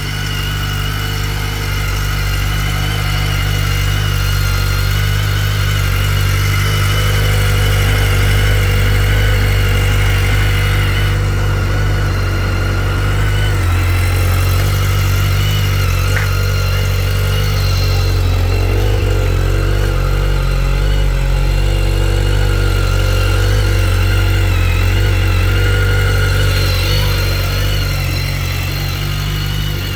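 2010 BMW K1300GT's inline four-cylinder engine idling steadily, not long after a cold start, growing a little louder over the first several seconds.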